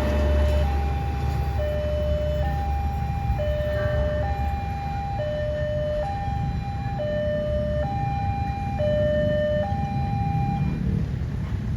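A two-tone hi-lo warning signal alternating between a lower and a higher note, each held just under a second, for about five cycles before stopping near the end. Under it, the low rumble of a passing train fades away in the first few seconds.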